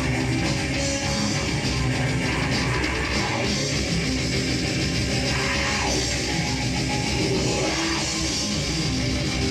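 A live heavy metal band playing loudly, with electric guitar and drum kit. A couple of falling guitar slides come about halfway through and near the end.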